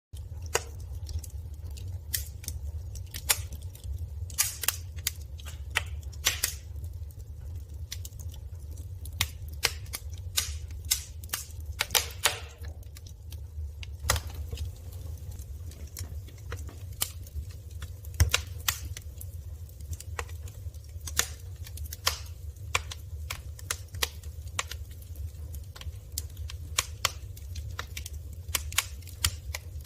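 Firewood burning in a fireplace: irregular crackles and sharp pops from the burning logs over a steady low rumble.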